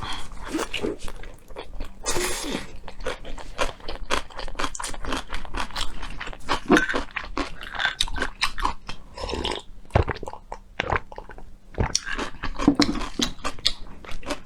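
Close-miked chewing of a noodle wrap with pickled yellow radish inside: a steady run of small wet crunches and mouth clicks.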